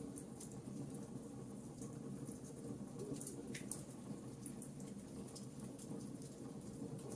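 Wood fire crackling: frequent small, irregular pops and ticks over a low, steady rumble of flames.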